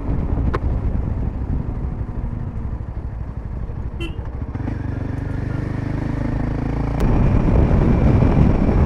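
Royal Enfield Himalayan 450's single-cylinder engine running through an aftermarket Power Rage exhaust with its dB killer fitted, the bike under way with strong wind buffeting the microphone. The engine note grows steadier around the middle, and after a click about seven seconds in it gets louder.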